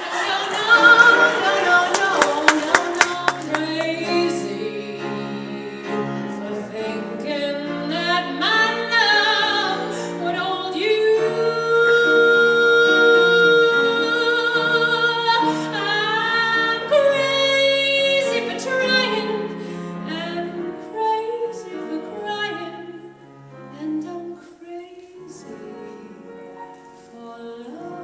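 A woman singing a show tune live to piano accompaniment, with long held notes and no clear words, including one sustained note through the middle. A quick run of sharp hits sounds in the first few seconds.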